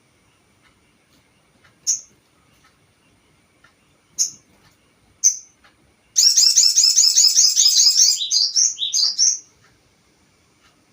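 Sogon bird singing: three single high chirps a second or two apart, then about six seconds in a loud rapid trill lasting about two seconds, ending in a few quick chirps.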